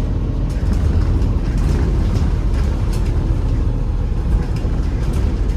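Inside a MAZ-203 low-floor city bus under way: a steady low rumble of engine and road, with scattered clicks and rattles from the interior.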